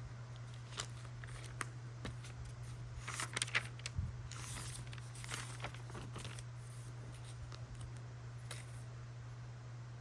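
Small stationery handling sounds: scattered light clicks and taps, with a few short paper rustles about three to five seconds in, over a steady low hum.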